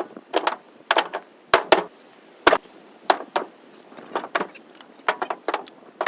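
A series of sharp knocks at an uneven pace, about two a second, each with a short ring-out.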